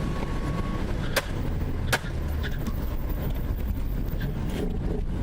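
Two sharp gunshots about three quarters of a second apart, over the steady low rumble of a vehicle engine and road noise.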